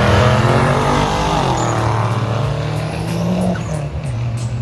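Car engine running steadily with a low, even pitch that dips slightly about three and a half seconds in.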